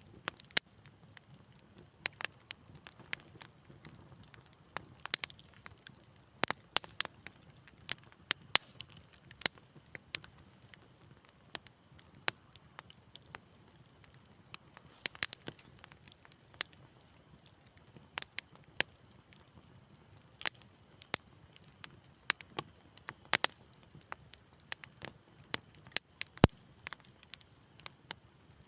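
Wood fire in a fireplace crackling: irregular sharp pops and snaps, a few a second at times, over a faint low hiss of burning.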